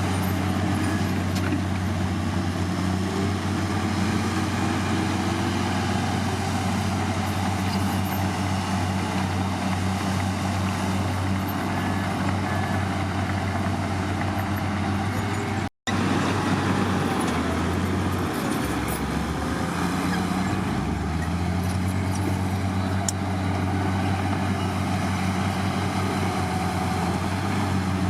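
Heavy diesel engine of a bulldozer or dump truck running steadily under work, its low pitch shifting for a few seconds after a brief cut in the sound about halfway through.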